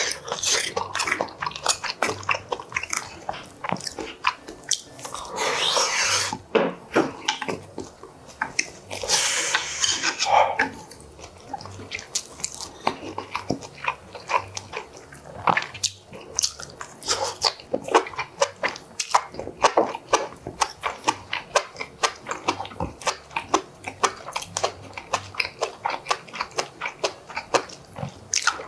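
Close-miked chewing of braised pork and kimchi with rice: wet mouth clicks and lip smacks in a quick, uneven run, with a few louder breathy mouthfuls early on.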